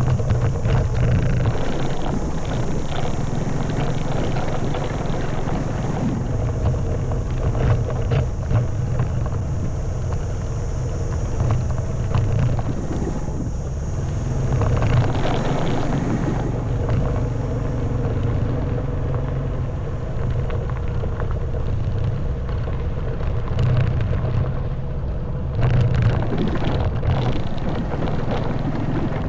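Honda Wave 110cc single-cylinder four-stroke motorbike engine running steadily while riding a rough stony track, with frequent knocks and rattles from the bike over the stones and wind on the microphone. Rougher, louder stretches come about halfway through and again near the end.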